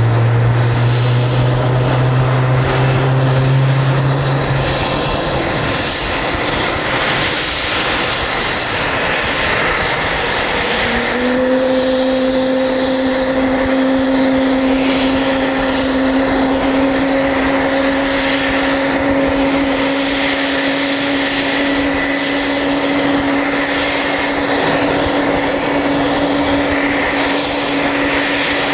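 UH-60A Black Hawk helicopter's turbine engines running close by: loud steady noise with a high whine that rises slowly in pitch over the first several seconds. A low hum stops about five seconds in, and a steady mid-pitched tone comes in about eleven seconds in and holds.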